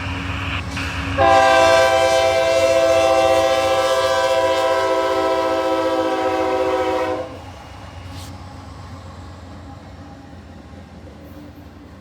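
Freight locomotive horn on a Norfolk Southern GE AC44C6M giving one long blast of about six seconds, starting about a second in and cutting off abruptly. Under it, and after it stops, the low rumble of the approaching diesel locomotives continues.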